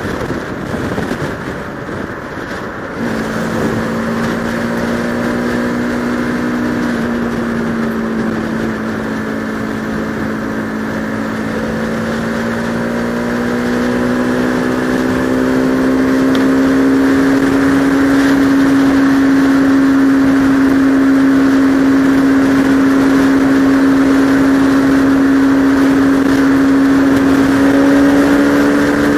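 Bajaj Pulsar RS200's single-cylinder engine running under way. The note sags over the first few seconds, steps up about three seconds in, then holds steady and climbs slowly as the bike gathers speed. Wind rushes over the helmet microphone.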